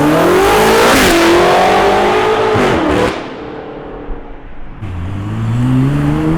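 Car engine accelerating hard at full throttle, the pitch climbing with a brief dip about a second in, then cutting off suddenly about three seconds in. A second rising run of engine pitch starts near the end.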